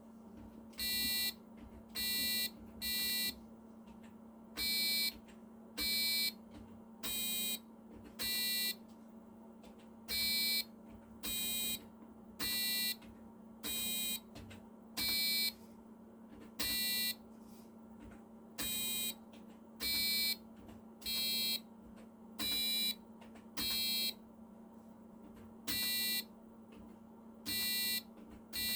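A home-made keyboard piano playing a simple melody as buzzy electronic beep notes, each about half a second long, roughly one a second in an uneven rhythm. A steady low electrical hum runs underneath.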